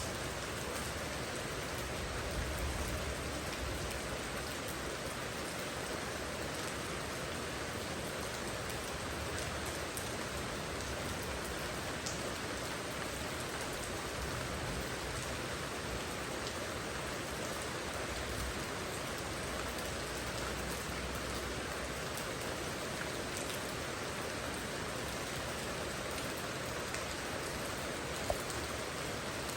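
Steady rain falling, an even hiss with scattered drop ticks and one sharper tick near the end.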